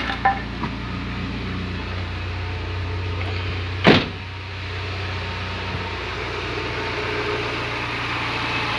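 Renault Clio 1.2 16V inline four-cylinder engine idling steadily, with a single loud thump about four seconds in.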